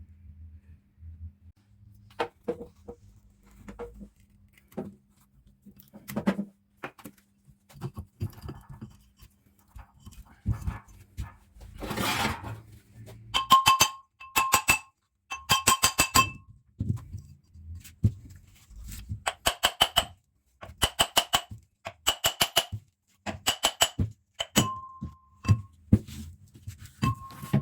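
Hammer strikes on ringing metal: a few scattered knocks at first, then from about the middle quick runs of several blows each, every blow ringing with a bright metallic tone.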